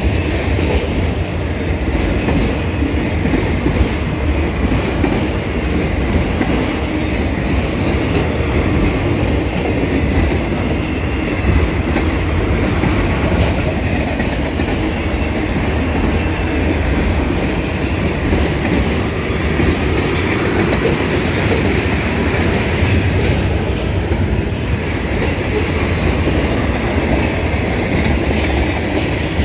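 Mixed freight train's cars rolling past at speed: a steady rumble with the clickety-clack of steel wheels over the rails.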